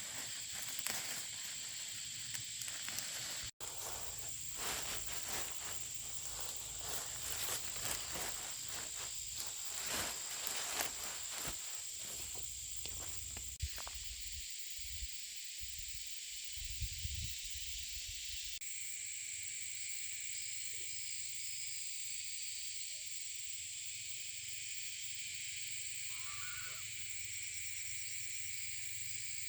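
Steady high-pitched insect hiss in the open countryside, with rustling and light knocks of something being handled for about the first half, after which only the even hiss remains.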